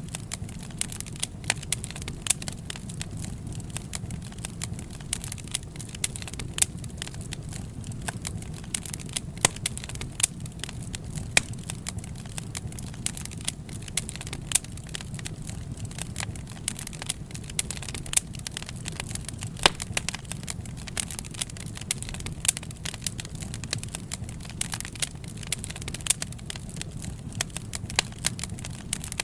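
Wood fire burning, with frequent irregular sharp crackles and pops over a steady low rumble of flames.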